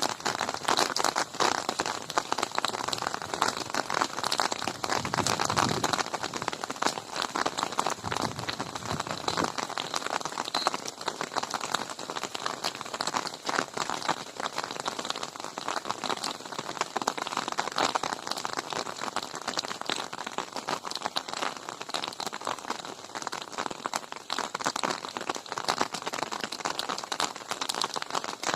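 Steady rain falling, with a dense, even patter of many individual drops striking close by.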